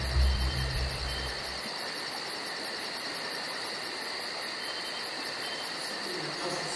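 Steady hiss with a very high, even chirping pulse about five times a second over a steady high whine. A low rumble underneath fades out under two seconds in.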